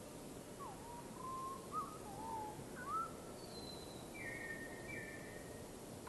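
Faint whistled birdsong: a short phrase of low, gliding, warbling whistles, followed by a thin high note and two short notes a little lower, over a steady background hiss.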